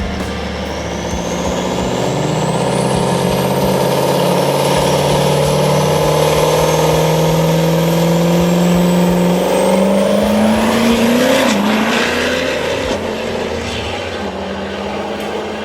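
Truck engine running at high revs, its pitch climbing about ten seconds in and then falling away, with a thin high whine rising above it.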